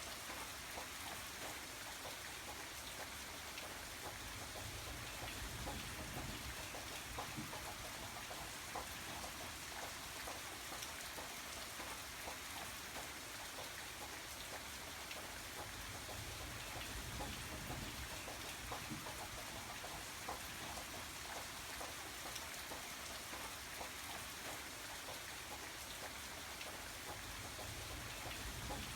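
Steady rain falling, with many small drop ticks over an even hiss and a low rumble that swells and fades every several seconds.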